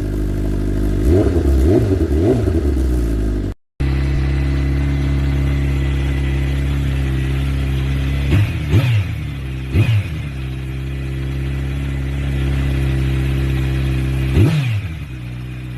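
Motorcycle exhaust at idle with quick throttle blips, a short run of revs early on. After an abrupt cut, another motorcycle idles with three single sharp revs, the last near the end.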